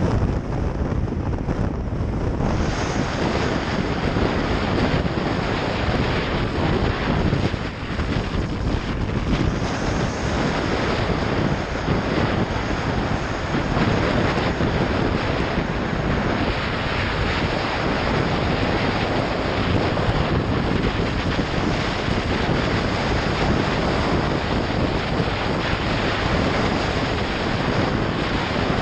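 Steady wind rush on the microphone of a moving motorcycle, with engine and road noise mixed in. The rush thickens about two seconds in.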